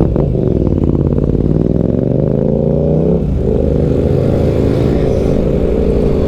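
Benelli BN 125 single-cylinder motorcycle engine accelerating. Its pitch climbs for about three seconds, drops suddenly at an upshift, then climbs again in the next gear.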